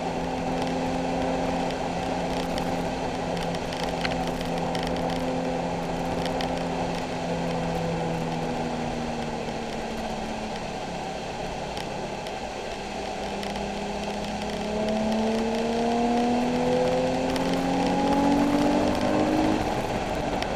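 Nissan 370Z's 3.7-litre V6 running under load on track: holding a steady note for the first several seconds, easing off around the middle, then revving up in a long rising climb over the last several seconds.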